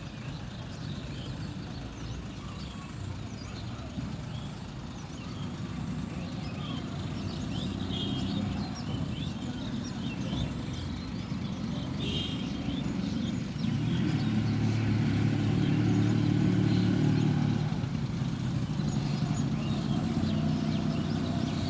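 Outdoor ambience: a low motor-vehicle engine rumble that grows louder for a few seconds after the middle, then eases off. Birds chirp now and then, over a thin steady high-pitched tone.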